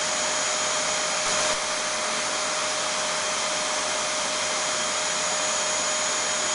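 Vacuum cleaner (hoover) motor running steadily: an even rushing hiss with a constant high whine over it.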